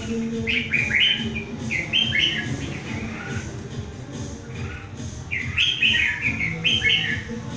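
Red-whiskered bulbul giving its loud challenge song, two bursts of quick, bright warbled phrases a few seconds apart.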